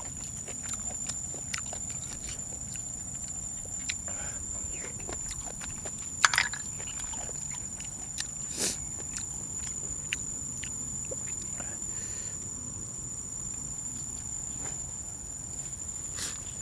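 Mukbang eating sounds: chewing and crunching with scattered small clicks, the sharpest just after six seconds in and again near eight and a half seconds, over a steady high-pitched whine.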